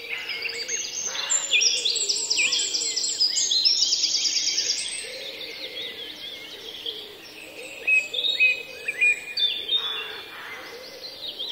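Several songbirds chirping and singing in quick trills over a faint outdoor background hum; the birdsong is busiest in the first few seconds and picks up again around eight seconds in.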